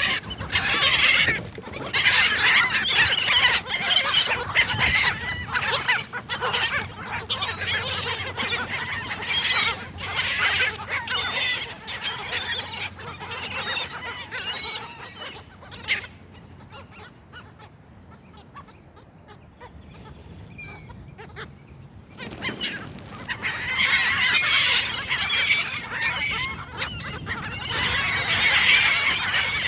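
Seagulls calling over one another in a dense squawking chatter. The calling dies down for several seconds past the middle, then starts up again thickly.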